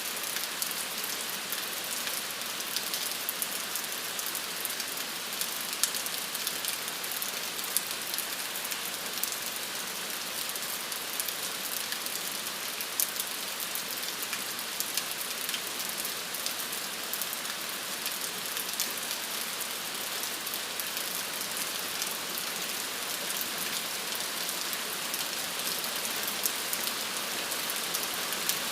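Steady rain falling, a continuous hiss with many small drop ticks on a surface.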